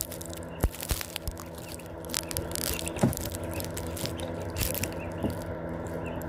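Irregular taps and scrapes right against a phone's microphone, with a few sharper clicks, over a steady low hum.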